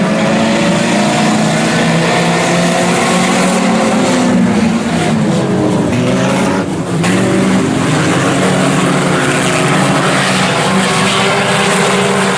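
A field of IMCA Sport Compact race cars running hard together: the four-cylinder engines' notes overlap and rise and fall as the pack goes by, with a brief dip about seven seconds in.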